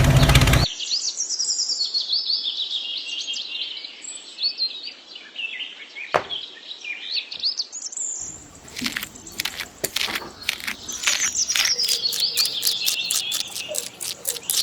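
Birds chirping in quick, high calls that rise and fall. About eight seconds in, a rapid run of sharp clicks starts under them and grows faster toward the end.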